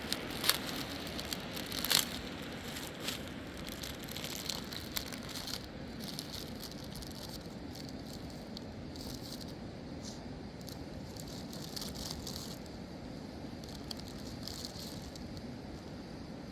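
Rustling with scattered clicks and knocks, two sharper knocks in the first two seconds, over a steady low rumble.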